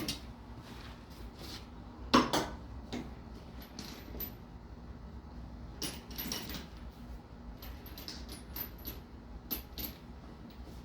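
Metal hand tools and parts clinking and clattering during engine work: scattered knocks and clanks, the loudest about two seconds in and another cluster around six seconds, over a low steady hum.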